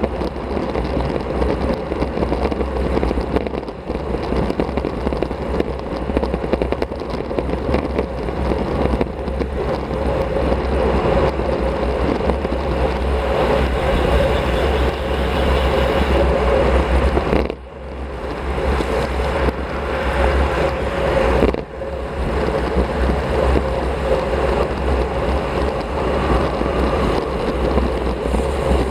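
Steady wind rush buffeting an action camera's microphone, with tyre and road noise from a road bike riding at speed. The rush cuts out briefly twice, about 17 and 21 seconds in.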